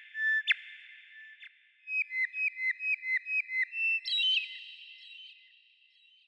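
A bird's clear whistled song: a note ending in a sharp downward flick, then, about two seconds in, a quick run of about eight short whistled notes, each dropping at the end, followed by a higher, longer note that fades away.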